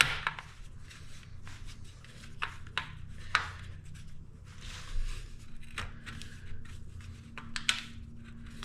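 Hand work at a bench: scattered light clicks and knocks with brief rubbing and scraping as a part is pulled over, tucked and clamped, over a low steady hum.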